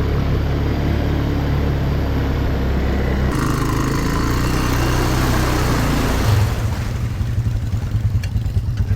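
ATV engine running under throttle. About six seconds in it drops to a slower, evenly pulsing beat, like the engine coming off the throttle to a low idle.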